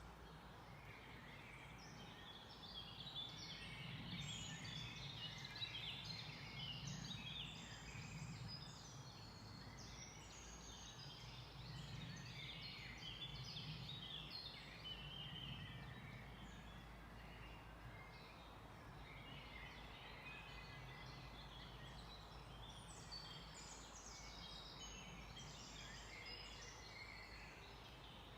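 A chorus of many songbirds singing at once: dense, overlapping, high chirps and short phrases, busiest in the first half and again near the end, over a faint low rumble.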